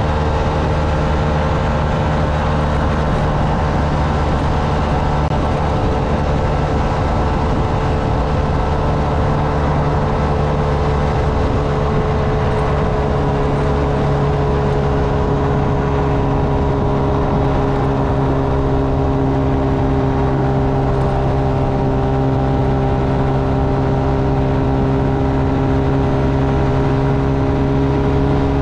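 Honda Navi's small single-cylinder engine running at a steady cruising speed while riding, its pitch drifting only slightly, over a constant rush of wind and road noise.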